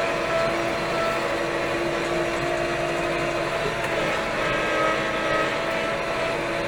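Steyr 4075 Kompakt tractor's Fiat Powertrain four-cylinder diesel engine running steadily, with a steady pitched whine over the engine note.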